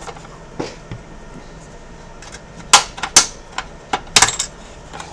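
Irregular sharp clicks and light knocks of hard plastic and metal parts being handled during disassembly of an Xbox One S console. The loudest click comes a little under three seconds in, with a tight cluster of clicks about four seconds in.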